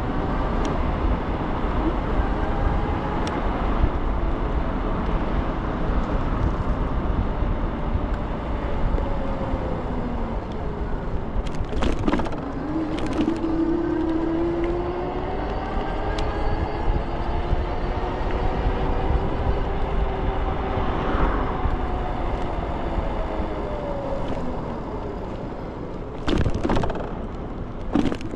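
Ikingi S6 Pro electric scooter on the move: a steady rush of wind and rolling noise, with the motor's whine gliding up and down in pitch as the speed changes. A few sharp knocks come about twelve seconds in and again near the end.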